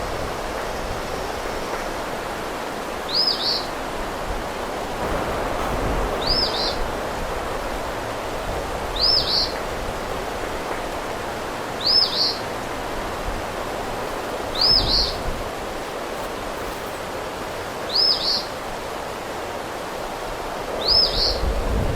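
A small bird repeating one short, high call seven times, about every three seconds, over a steady hiss of wind and rain.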